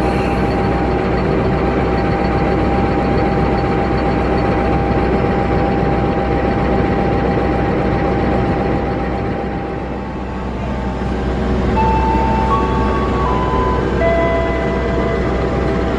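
Passenger train running at about 113 km/h, heard from on board: a steady rumble of wheels on the rails. The noise dips briefly about ten seconds in, and several short held tones at different pitches sound near the end.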